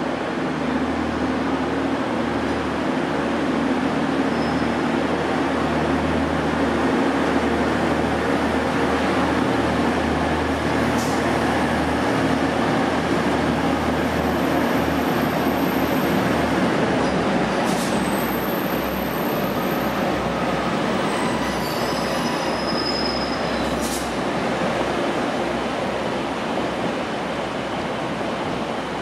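Diesel multiple-unit trains, a Class 156 and Class 150 pair, rolling slowly in over curved station trackwork with a steady engine hum. Brief high wheel squeals and a few sharp clicks from the wheels over points come past the middle.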